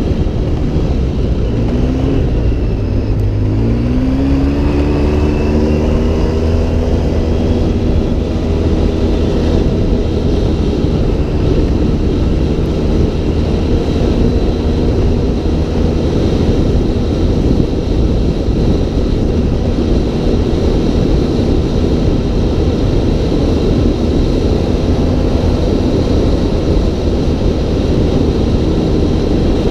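Off-road vehicle engine under way. Its pitch dips about two seconds in, then climbs as it revs up, and after that it runs steadily under a loud, dense rush of noise.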